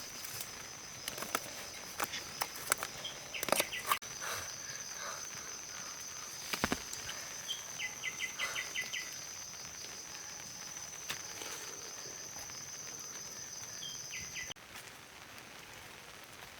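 Outdoor ambience with a steady high insect drone that cuts off suddenly near the end, scattered clicks and rustles, and a short rapid chirping series about eight seconds in.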